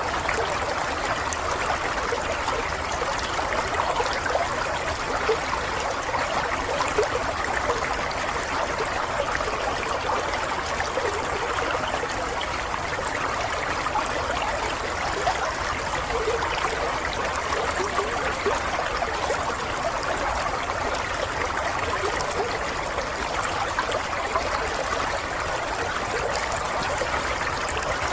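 Small stream of water running and trickling steadily, with a busy patter of small splashes.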